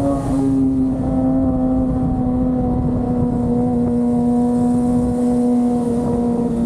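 Kawasaki ZX-25R's 249 cc inline-four engine running at a high, steady note while riding. Just after the start there is a brief break and a slight drop in pitch, like a gear change, and the note then sinks slowly.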